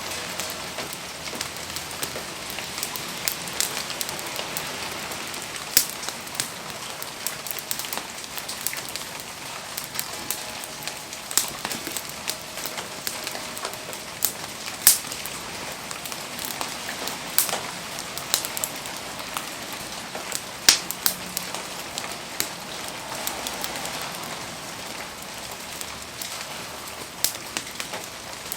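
Wood fire crackling in the rain: a steady hiss of rainfall with frequent sharp pops and snaps from the burning wood, a few of them louder.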